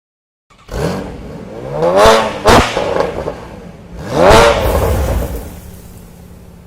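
Lamborghini Huracán's V10 engine through a Capristo exhaust, revved in three blips with the pitch rising and falling back each time. There is a sharp crack about two and a half seconds in.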